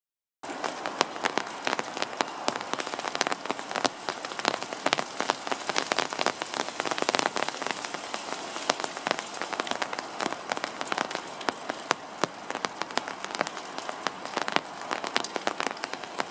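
Steady rain heard from under an umbrella: a dense patter of drops striking the umbrella canopy just above the camera, starting suddenly about half a second in.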